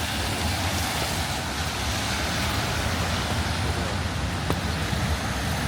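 Road traffic on a wet city street: a steady wash of noise over a low engine rumble, with one short click about four and a half seconds in.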